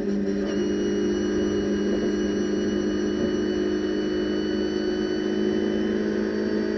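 Renault Clio Cup race car's four-cylinder engine at full throttle in sixth gear, running steadily at high revs, heard from inside the cockpit along with road and wind noise.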